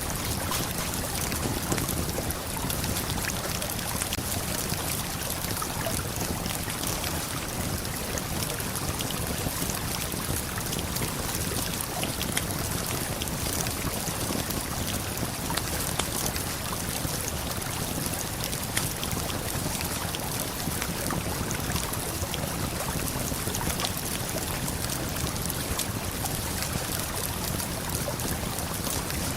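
Waterfall and river water rushing in a steady wash of noise, with scattered small crackles and pops from a campfire.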